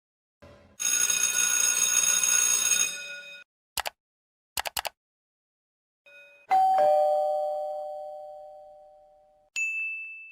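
Sound effects in quick succession: a steady ringing for about two and a half seconds, a few quick clicks, then a two-note ding-dong doorbell chime, high note then low, that fades slowly. A short high beep comes near the end.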